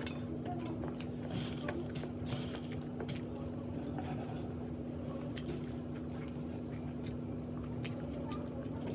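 A person chewing crunchy food close to the microphone, with many small crisp crackles, over a steady low hum.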